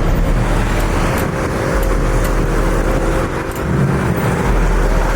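A car engine running close by, with a steady low rumble and a faint steady hum over it.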